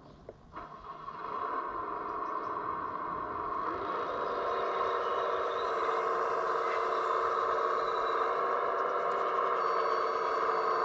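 Small electric motor of a radio-controlled construction model whining steadily. It starts up after a few light clicks about a second in and builds to full speed by about four seconds.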